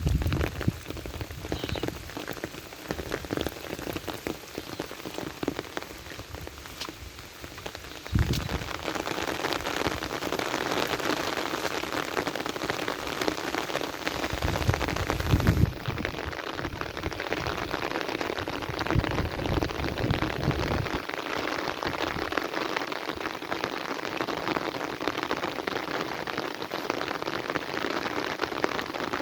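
Heavy rain pouring down steadily, turning heavier about eight seconds in, with a few low rumbles underneath.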